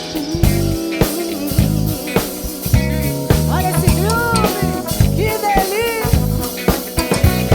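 A band plays an instrumental samba-funk groove on drum kit, bass and keyboards, with a lead line of bending, sliding notes over it about halfway through.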